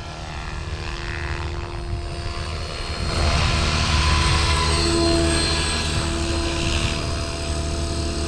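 Electric Oxy5 RC helicopter in flight: the steady whine of its motor and spinning rotor, growing louder about three seconds in.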